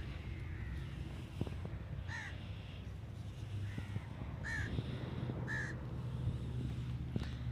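Crows cawing: three short calls, the last two about a second apart, over a steady low engine hum.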